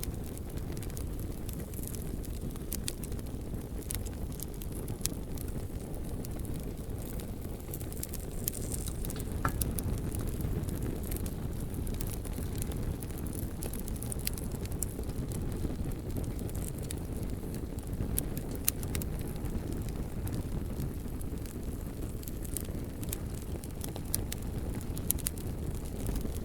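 Bonfire burning: a steady low rush of flames with scattered sharp crackles and pops from the burning logs.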